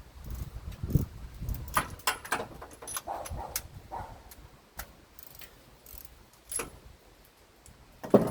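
Irregular metallic clinks and knocks of a socket wrench and extension being worked on spark plugs to break them loose.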